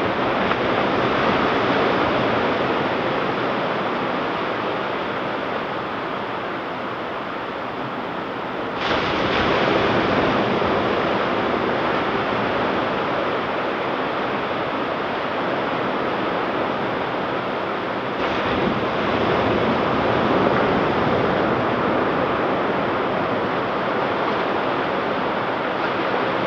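Ocean surf washing onto a beach in a steady rush. It swells suddenly louder about nine seconds in and again around eighteen seconds, as fresh waves break.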